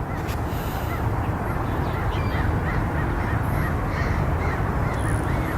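A flock of wild parrots calling in the distance: a quick run of short, repeated squawks, several a second, over a steady low rumble.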